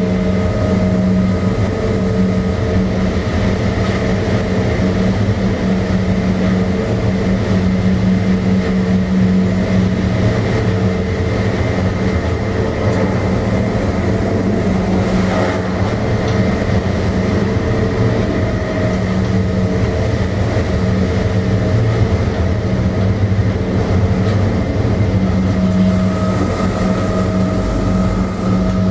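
Electric train running steadily along the track, heard from the driver's cab: a continuous rumble of wheels on rail with a steady multi-toned hum from the drive. A single brief knock comes about halfway through.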